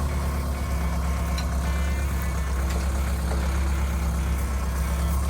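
Jeep engine running at a steady pace, a low, even drone heard from inside the vehicle.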